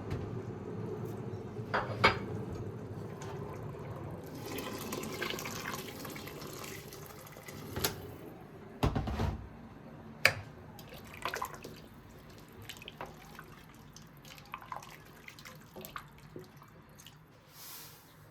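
Water running from a tap into a sink, fading gradually, with sharp knocks and clinks about two, eight and ten seconds in and lighter ones after.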